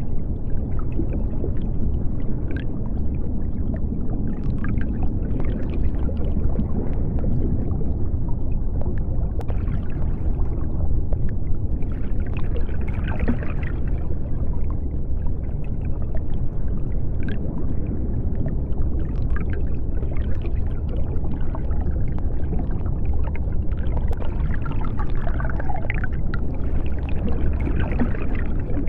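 Underwater sea ambience: a steady deep rumble with a higher hiss that swells twice, and scattered faint clicks.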